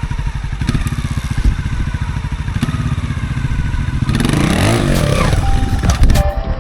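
Trials motorcycle engine running with a steady low pulsing beat, revved up and back down about four seconds in.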